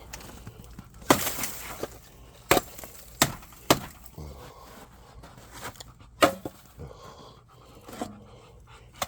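A series of sharp knocks and clatters, about six, irregularly spaced, some with a short ring after them; the loudest come a little past a second in and about six seconds in.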